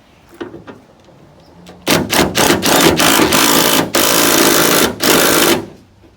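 Handheld power tool, of the drill or driver kind, worked in bursts. A few quick trigger pulses come about two seconds in, then it runs in three longer stretches with short breaks and stops near the end. There are a few small clicks before it starts.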